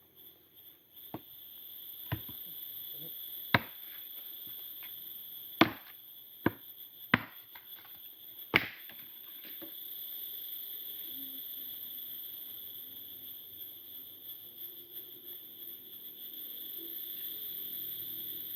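Wood being chopped: about seven sharp, irregularly spaced strikes in the first nine seconds, then they stop. Forest insects chirr steadily and high-pitched throughout.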